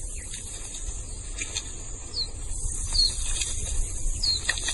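Outdoor field ambience: a small bird gives three short, high, falling chirps about two, three and four seconds in, over a low steady rumble with a few faint clicks and scrapes.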